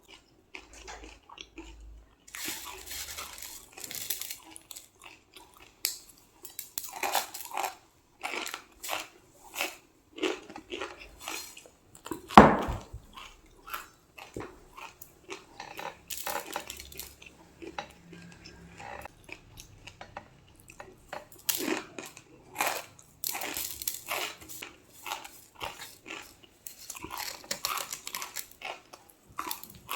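Crispy panipuri shells being bitten and chewed close to the microphone: irregular crisp crunching and chewing, with one sharp, loud crunch about twelve seconds in.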